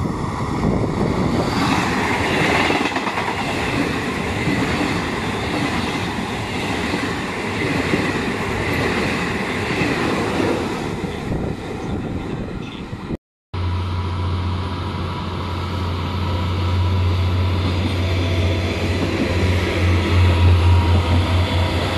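A passenger train passing close by, with wheels clattering on the rails. About 13 seconds in, the sound breaks off at an edit. A second train then passes, with a strong steady low hum that pulses near the end.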